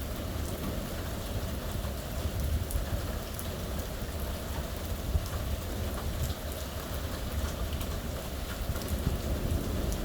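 Steady rain falling during a thunderstorm, with many individual drops ticking sharply on a surface and a low rumble underneath.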